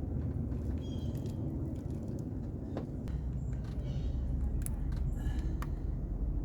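Scattered light clicks and clinks of tools and parts being handled in an engine bay, over a steady low rumble.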